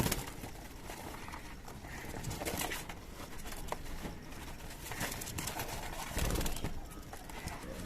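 Birds calling while a cage is handled, with rustling and light knocks and a dull thump about six seconds in.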